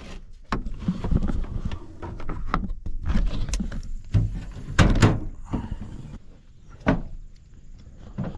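Vehicle door being handled: a run of clicks, knocks and thumps, the loudest about five seconds in.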